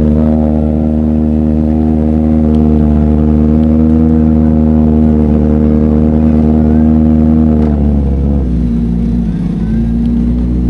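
Kawasaki ZX-4RR's inline-four engine through an SC Project exhaust, under way at a steady engine speed; about eight seconds in the throttle closes and the note drops and wavers, then picks up again near the end.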